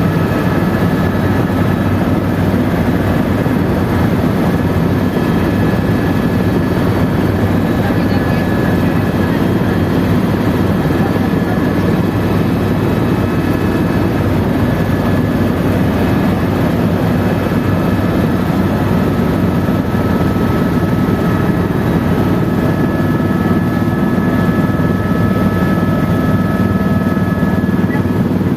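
Helicopter in flight heard from inside the cabin: a steady, loud drone of rotor and engine noise, with a faint steady whine on top.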